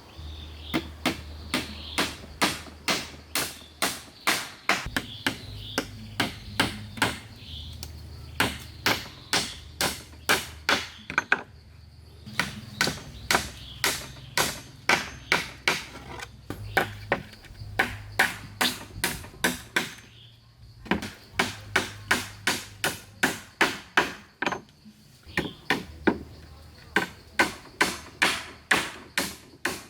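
A hand tool striking wood over and over in a fast, steady rhythm of about three blows a second, in runs broken by two short pauses, one near the middle and one about two-thirds in.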